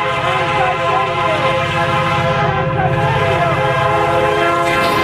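Freight train of oil tank cars passing, its horn sounding a long steady chord over the low rumble and clatter of the cars.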